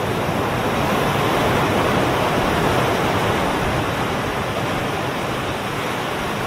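A steady, loud rushing noise with no pitch or rhythm, ending abruptly near the end.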